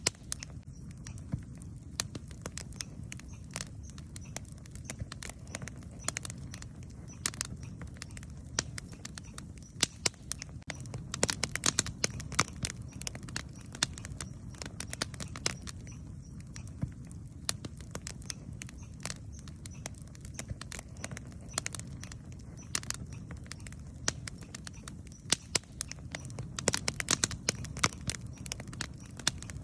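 Wood campfire crackling, with frequent sharp pops and snaps that come in busier flurries about eleven seconds in and again near the end, over a steady low rumble.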